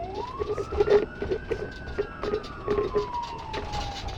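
Police car siren on its wail setting: the pitch rises quickly and then falls slowly through one cycle, low again near the end, over scattered clicks and knocks.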